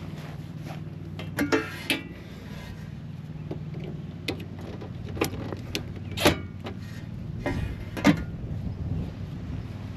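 Gear being handled, with irregular knocks, clicks and rattles, about a dozen of them, the loudest about six and eight seconds in, over a steady low hum.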